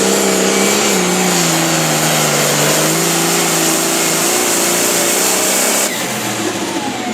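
Pulling tractor's engine running hard under full load, with a high steady whine above it; the pitch sags slightly about a second in, and the sound drops off abruptly about six seconds in.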